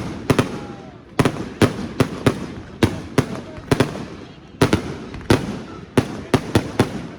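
Fireworks going off: an irregular volley of sharp bangs, two or three a second, each trailing off in a rolling echo.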